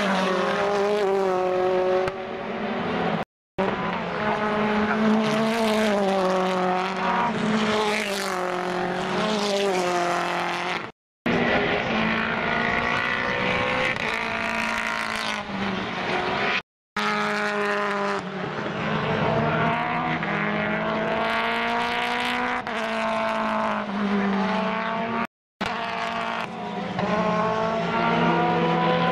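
British Touring Car Championship race car engines at racing speed, pitch climbing and dropping again and again through gear changes and corners. The sound breaks off for a split second four times, where separate shots are joined.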